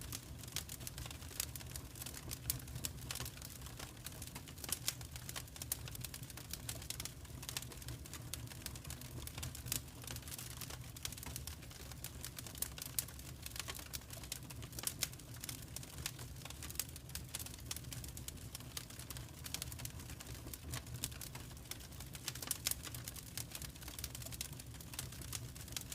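Wood fire crackling: irregular sharp pops and snaps over a low steady rumble of the burning logs.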